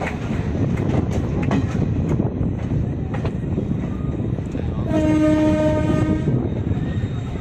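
Train running, heard from inside a coach: a steady rumble of wheels on rail with scattered sharp clicks over rail joints. About five seconds in, the WDG4 diesel locomotive sounds one horn blast of about a second and a half.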